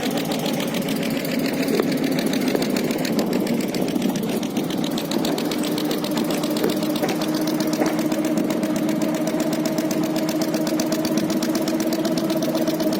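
Boat engine running steadily with a fast, even knock; a steady hum comes up about five seconds in.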